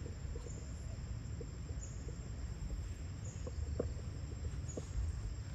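Outdoor insect sounds: a steady high-pitched drone with a faint chirp repeating about every three-quarters of a second, over a low rumble and a few scattered soft clicks.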